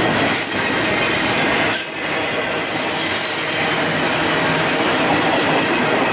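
Double-stack container train's well cars rolling slowly past close by: a steady rumble and clatter of wheels on rail, with thin steady wheel squeal running through it.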